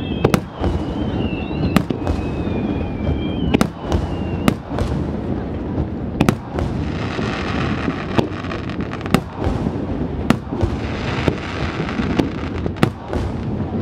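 Aerial firework shells bursting in a steady barrage, sharp bangs about once a second over a continuous rumble of echoing booms. A thin wavering whistle runs through the first few seconds.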